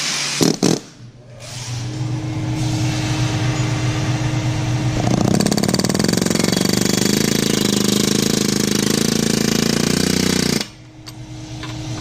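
Excavator running under load, with a dense, fast rattle that gets louder about five seconds in and drops off sharply near the end. Two sharp knocks come just before it, near the start.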